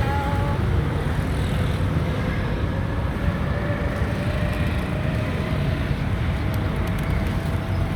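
Steady low outdoor rumble, like wind and distant traffic, with a faint tone slowly rising in pitch through most of the stretch.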